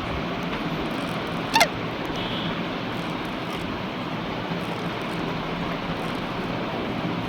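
Steady rushing noise, with one short squeak that falls in pitch about one and a half seconds in.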